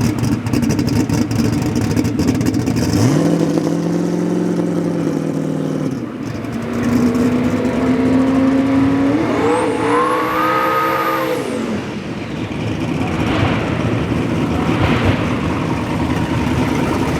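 A drag car's engine revving. It rises in pitch a few seconds in and holds, then settles to a steady note. Past the middle it climbs hard to a higher pitch with a high whine over it, then falls away.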